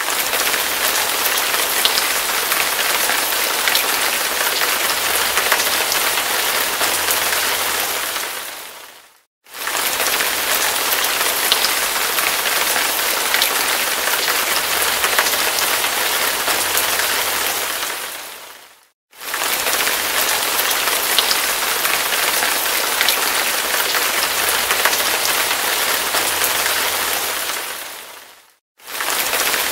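Heavy rain falling as a dense, steady hiss. Three times, about every nine and a half seconds, it dips to silence for a moment and fades back in.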